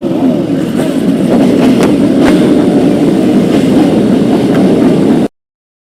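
Several motorcycle engines running together, their pitches wavering up and down. The sound cuts off abruptly about five seconds in.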